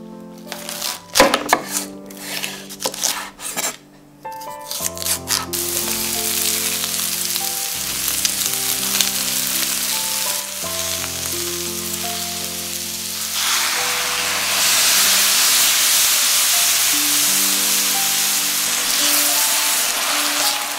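Knife chopping bok choy on a wooden cutting board, a rapid run of sharp strokes over the first few seconds. Then bok choy and carrot sizzle in a hot wok while a spatula stirs them, the sizzle growing louder about two-thirds of the way through.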